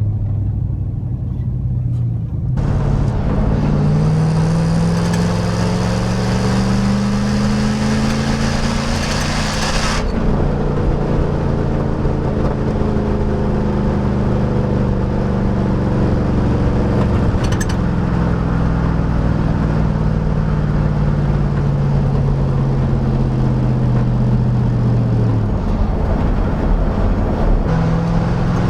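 Chevrolet 5.3L LM7 V8 exhaust through a Cherry Bomb chambered muffler, heard as cab drone under acceleration. It opens low and even, then about two and a half seconds in it pulls hard with pitch rising for several seconds. After a shift about ten seconds in it holds a steady drone that slowly sags, and the pitch drops again near the end.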